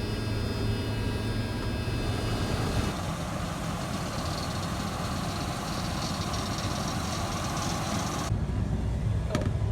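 Combine harvester running: a steady engine and machinery drone, with a whine on top that fades out about three seconds in.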